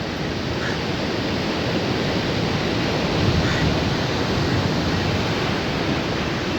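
Ocean surf washing onto a beach: a steady hiss of breaking waves that swells slightly midway.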